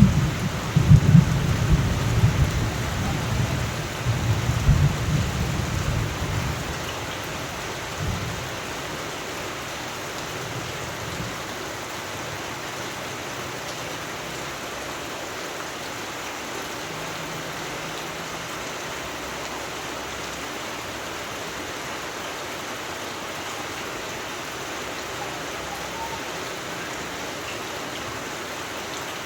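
Rain falling steadily during a thunderstorm, with thunder rumbling through the first several seconds and dying away about seven seconds in, leaving an even hiss of rain.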